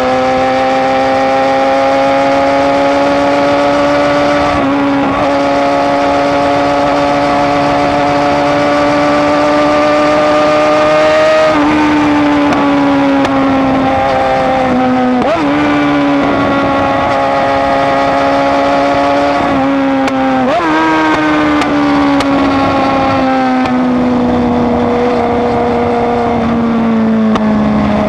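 BMW S1000RR's inline-four engine running hard through an Austin Racing exhaust while riding. Its note rises slowly, with short breaks and steps in pitch about five times at gear changes, then falls slowly near the end.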